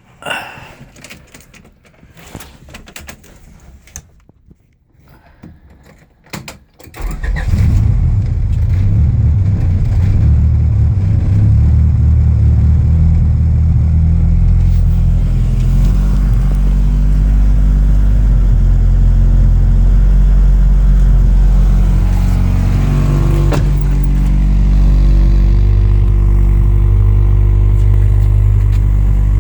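Honda B18C four-cylinder with Toda C camshafts cold-starting: a few faint clicks, then about seven seconds in it starts and runs at a steady cold idle. The idle note shifts a little twice as it settles.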